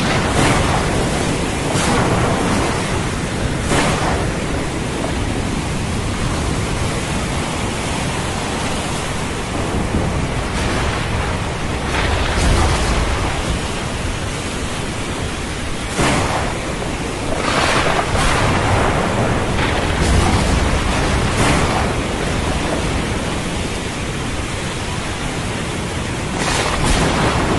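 Heavy rain falling steadily, with thunder cracking several times and rumbling low at times.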